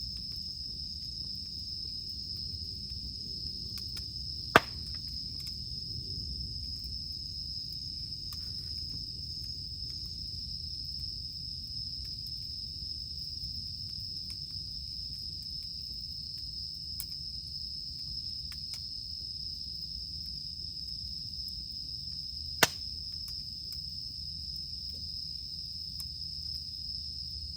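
Steady high-pitched drone of cicadas over the low rumble of a campfire, with two sharp pops of burning firewood, a few seconds in and again near the end.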